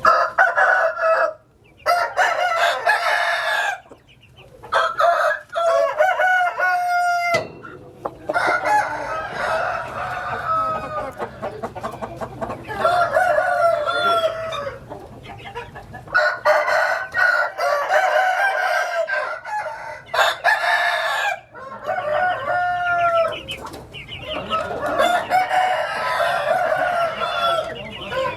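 Several roosters crowing over and over, their calls overlapping, with clucking and a few short pauses between bursts.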